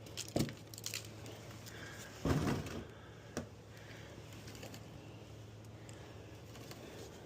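A few scattered knocks and one duller, louder thump about two seconds in, like something being handled or tapped, over a steady low hum.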